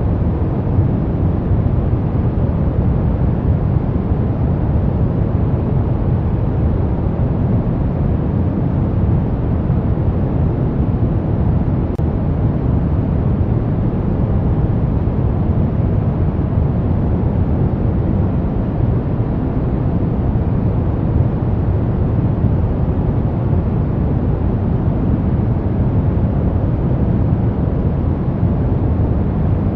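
Steady brown noise: a constant, even hiss weighted heavily toward the low end and fading toward the highs.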